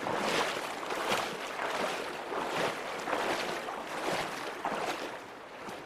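Wading steps splashing through the Virgin River's shallow water, about two strides a second over the rush of moving water, easing off near the end.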